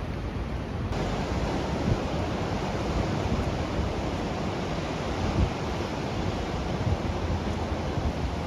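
Ocean surf washing onto the beach in a steady rushing hiss that grows fuller about a second in, with wind gusting against the microphone in a few low thuds.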